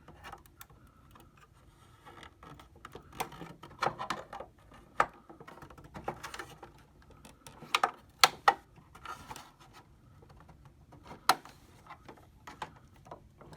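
Irregular small plastic clicks and taps as the HP 3330's scanner cover and its clips are handled and pried at.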